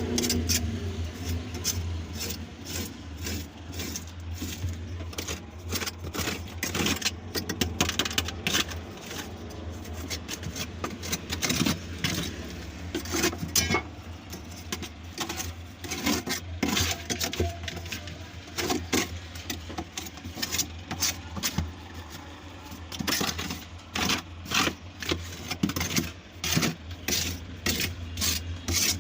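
Steady low machine hum with frequent sharp clicks and metallic clinks of parts and tools being handled.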